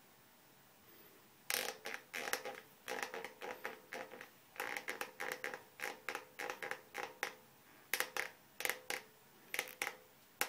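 Stock saddle of an Orbea Onix bicycle creaking: a run of short, squeaky creaks, about three a second in uneven groups, starting about one and a half seconds in. This is the saddle's abnormal noise.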